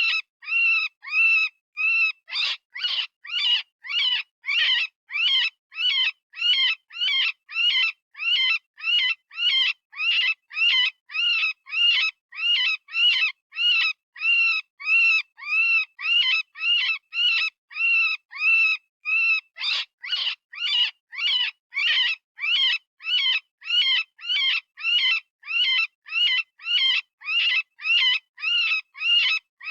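Software-generated rabbit distress scream: a long run of short, high-pitched cries, about two a second, each rising and falling in pitch, turning harsher a couple of seconds in and again about two-thirds of the way through. It is the cry a rabbit gives in pain or fear, the kind of call used to lure predators.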